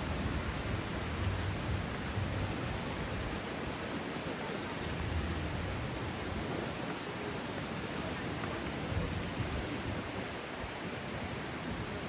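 Strong wind blowing steadily and buffeting the microphone, with low gusting rumbles that swell and fade every second or two.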